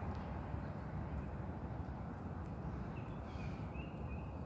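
Faint outdoor background: a low steady rumble, with a bird chirping faintly from about three seconds in.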